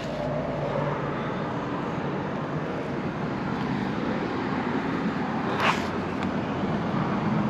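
Steady noise of road traffic going by, with one short sharp knock about three quarters of the way through.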